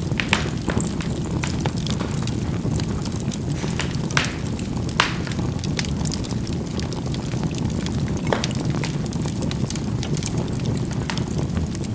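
Charcoal burning in a fireplace: a steady low rumble of the fire with scattered sharp crackling pops as the charcoal bursts, the clearest about four, five and eight seconds in.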